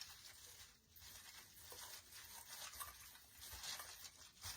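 Faint rustling and light clicking of artificial pine greenery and ornament balls being handled and adjusted on a swag.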